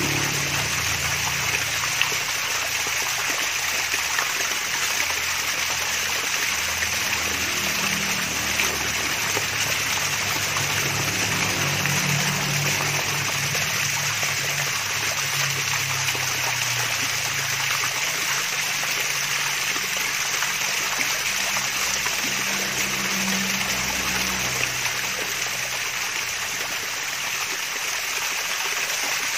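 Water from a small waterfall trickling and splashing in a steady, unbroken rush, with a soft low gurgle beneath.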